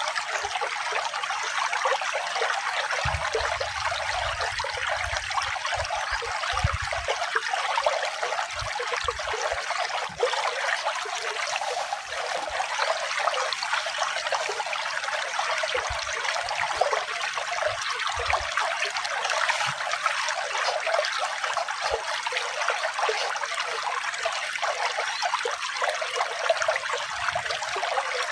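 Running water, a steady trickling, splashing flow like a small stream, with no pauses or changes.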